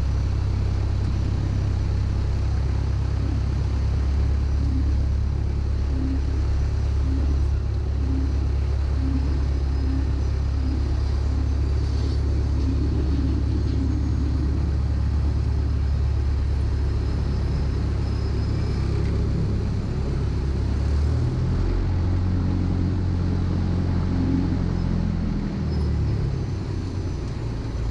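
Cessna 152's four-cylinder Lycoming engine and propeller idling steadily while the plane holds short of the runway. The engine note shifts about two-thirds of the way through, then settles again near the end.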